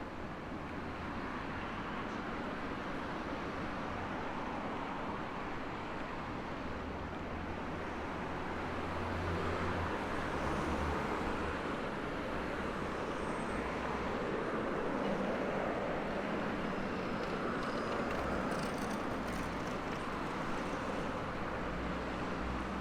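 City street ambience: steady road traffic noise, with vehicles passing and the rumble growing louder through the middle.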